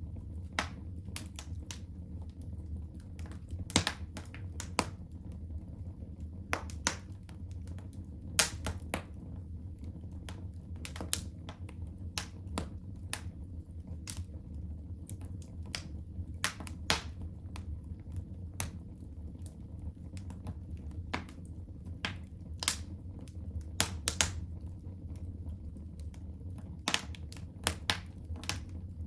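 Wood fire burning in a home fireplace: sharp, irregular crackles and pops over a steady low rumble of flame.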